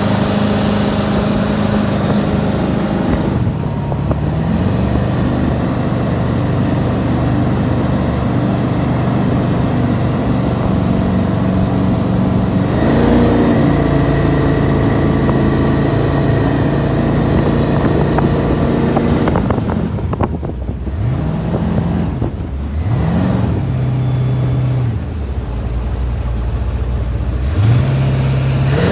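Jet boat's inboard engine running under way through a Jacuzzi YJ jet pump, with the throttle changing: the pitch drops about three seconds in, climbs again around thirteen seconds, then dips and rises several times near the end.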